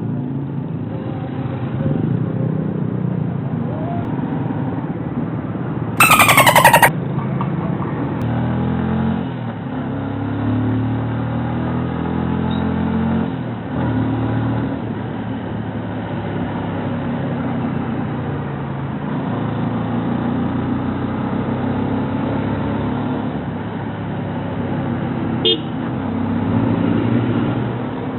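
Kawasaki Rouser NS125 FI single-cylinder motorcycle engine running on the move, its pitch rising and falling with the throttle and gear changes, with a short dip about thirteen seconds in. A brief loud burst cuts across it about six seconds in.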